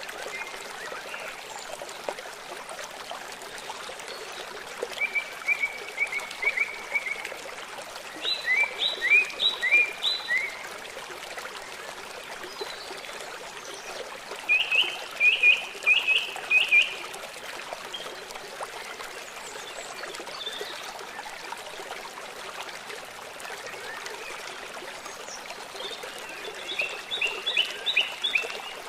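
Steady running water, like a stream, with a bird singing four short phrases of quick repeated slurred notes, each phrase one to two seconds long: about five seconds in, near eight seconds, around fifteen seconds and near the end.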